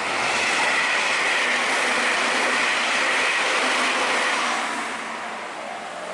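Meitetsu Panorama Super limited express train passing at speed, a loud rush of wheels and running noise that begins abruptly and fades after about four and a half seconds.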